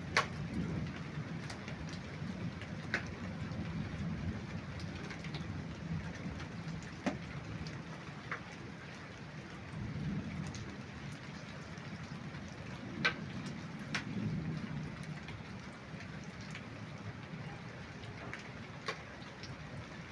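Rain falling steadily, with scattered louder drops striking close by and a low rumble that swells now and then.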